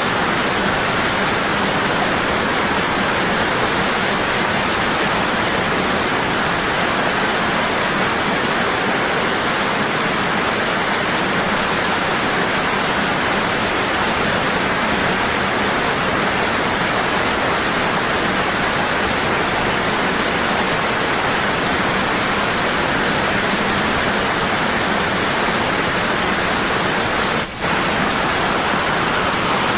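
Waterfall rushing strong and steady, falling water making a constant full-range roar, with a momentary dip in level about two seconds before the end.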